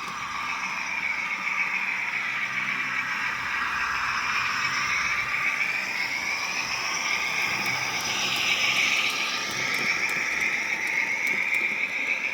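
Model railway locomotive of a SerFer V142 running along the track: a steady mechanical whine with several tones that drift slowly up and down in pitch, louder for a moment about eight to nine seconds in.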